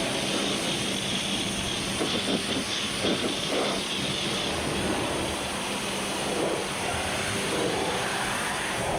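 Pressure washer running steadily: a constant motor hum under the hiss of the water jet, with a few irregular spatters.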